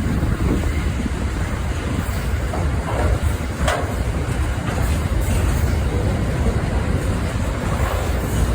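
Goods train running past, a steady rumble of wagons on the track, with a brief sharp squeal about three and a half seconds in.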